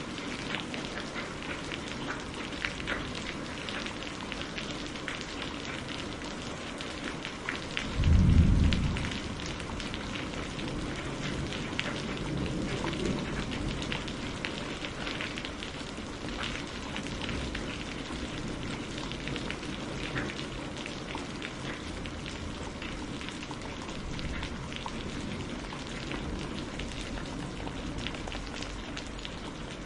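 Steady rain with many small drops ticking on a surface. About eight seconds in there is a loud, deep boom lasting about a second, and a fainter low rumble follows a few seconds later.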